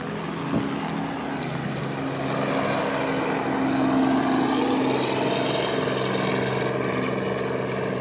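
Propeller aircraft engine droning overhead, growing louder to a peak about four seconds in and then easing off slightly. A sharp click about half a second in.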